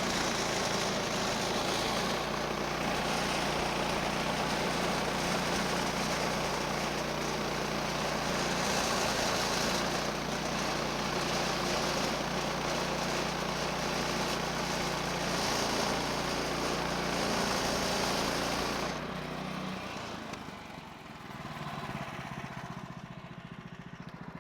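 Woodland Mills HM130 bandsaw mill working: its 14 HP Kohler engine running steadily at high throttle while the band blade cuts along a log. About 19 seconds in the throttle is let off, and the engine drops to a quieter, lower idle.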